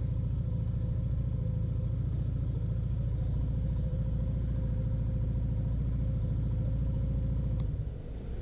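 Motorcycle engine running steadily at low revs, then cutting off about eight seconds in, as the bike is shut down for refuelling.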